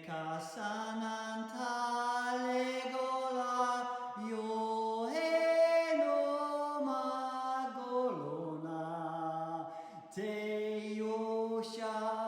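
A voice chanting long held notes, stepping to a new pitch every few seconds, rising to its highest note about five seconds in and dropping lower near eight seconds.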